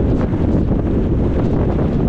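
Steady wind rush buffeting the microphone, mixed with the low rumble of a car driving along a road.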